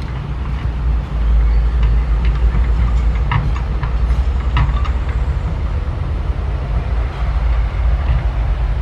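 Diesel engine of a SANY SY135F excavator working under load, a deep rumble that swells about a second in, with a few short metallic clanks around the middle.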